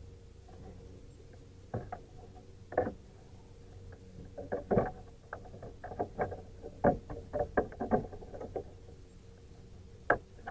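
Irregular knocks and splashes at a small fishing kayak as a hooked carp is landed and handled, a dozen or so sharp hits mostly in the middle of the stretch, over a faint steady hum.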